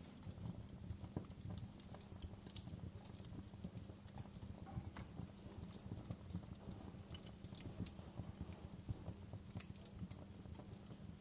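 Wood fire crackling in a fireplace: a steady low rumble of burning with frequent irregular pops and snaps, a few louder than the rest.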